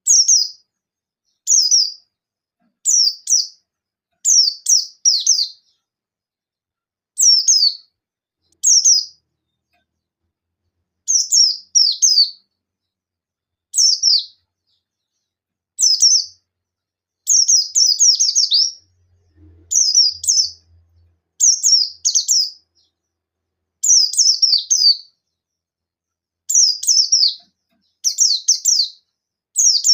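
Pleci buxtoni white-eye singing in rapid 'nembak' bursts: short clusters of one to several high, quickly falling chirps, repeated every second or two, given as calls to a rival.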